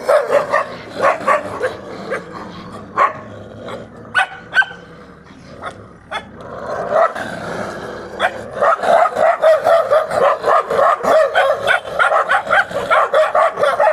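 A dog barking repeatedly, the barks scattered at first and then coming in a fast, steady run of several a second from about halfway through.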